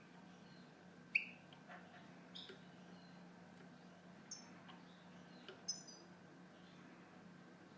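European goldfinch giving scattered short, sharp chirps and brief twittering notes every second or so, not a continuous song. The loudest come about a second in and near the end. A faint steady low hum runs beneath.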